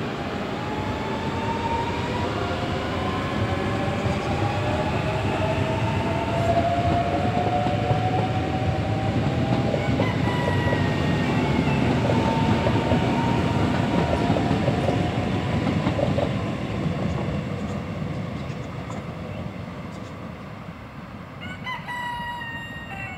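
Electric multiple-unit passenger train of Portugal's CP passing on the line: a steady rumble and clatter of wheels on the rails with a faint whine that rises slowly in pitch. Loudest in the middle, it fades away over the last several seconds as the train draws off.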